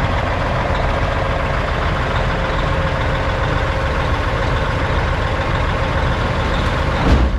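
Heavy diesel engines running steadily while an excavator loads dirt into a dump truck, with a single sudden thump about seven seconds in.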